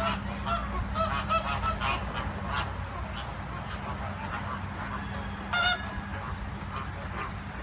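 Birds giving short, nasal honking calls, a quick series in the first two seconds and one louder call about five and a half seconds in, over a steady low hum.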